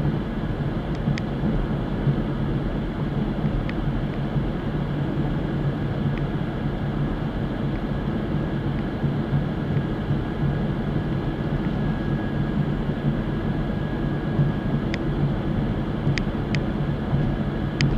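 Car driving at steady speed: a continuous low engine drone and road rumble, with a few faint clicks.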